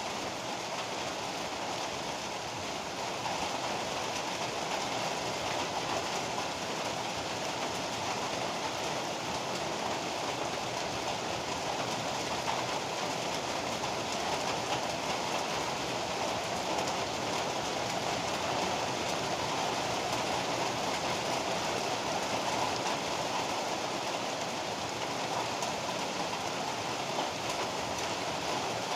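Heavy rain pouring down steadily in an even, unbroken hiss, with no thunder claps.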